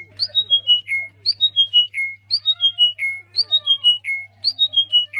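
A songbird repeating a short whistled phrase of about five notes stepping down in pitch, roughly once a second, over a steady low hum.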